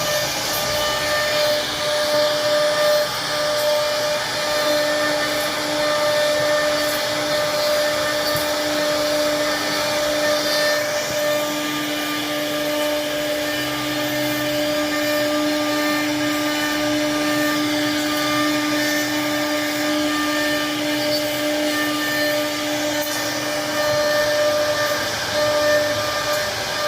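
A motor-driven machine running steadily, a constant whine over a rushing noise.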